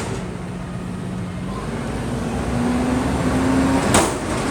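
A vehicle engine running with a low rumble, its tone rising in pitch partway through as it speeds up. A short knock comes near the end.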